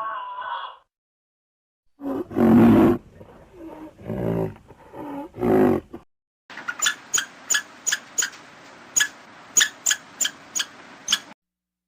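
A large animal growling and roaring in several loud, low, rough calls, followed after a short gap by a faint hiss with sharp clicks about three times a second.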